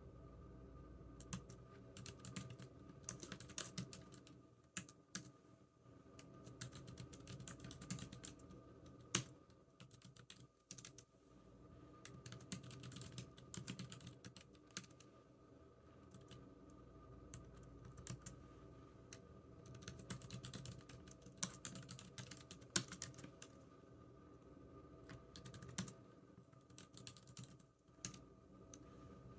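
Typing on a computer keyboard: runs of quick key clicks with short pauses between bursts, over a faint steady hum.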